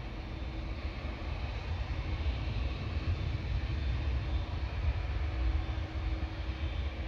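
Jet airliner engine noise during takeoff: a steady deep rumble with a faint hum, swelling a little in the middle and easing near the end.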